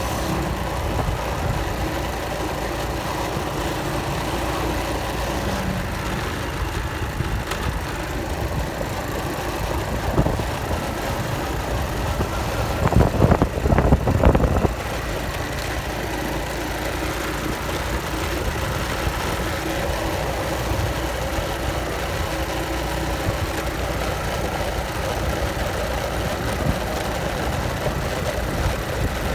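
An engine running steadily, with a louder, noisier stretch lasting about two seconds near the middle.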